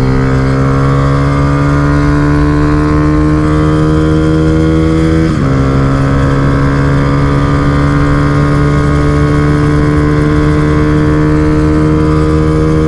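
Honda Fan 125's single-cylinder four-stroke engine under full-throttle acceleration, its pitch climbing steadily. About five seconds in, an upshift drops the pitch, and it climbs again in the next gear. It runs on a swapped-in 'CDI 1000 2001' ignition module.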